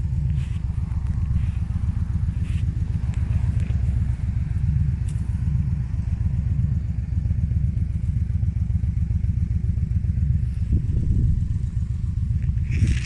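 Motorcycle engine running steadily while riding along, a low, even rumble.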